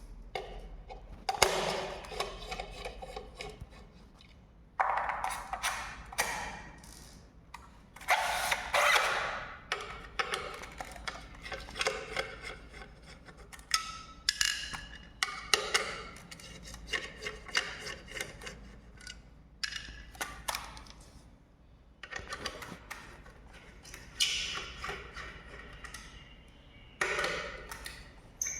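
A series of irregular knocks and clanks, a dozen or so, each ringing out for a second or two before the next.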